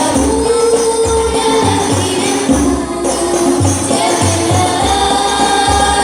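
Banjari ensemble playing: hand-beaten frame drums and a deep bass drum thump out a syncopated rhythm under a voice singing long, held notes of a devotional song.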